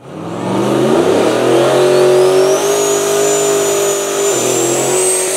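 Custom Ford F-150 tough truck's engine revving hard under acceleration. Its pitch climbs for about two seconds, then holds at high revs with a brief dip about four seconds in, and a thin high whine rises above it.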